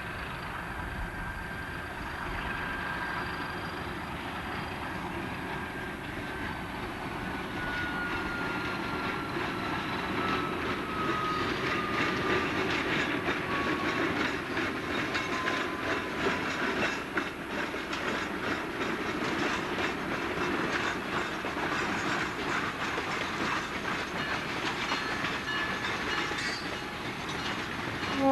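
Freight train hauled by an Alco S4 switcher running past, its wheels clicking steadily over rail joints. A drawn-out whine slowly falls in pitch through the first half. A horn blast begins right at the end.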